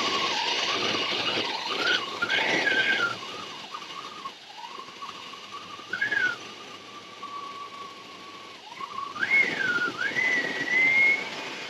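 A high whistle of air sucked through a cracked-open vacuum connection into a running 2001 Chevy Silverado engine's intake as Seafoam is fed in, wavering in pitch and jumping higher a few times with louder rushing spells.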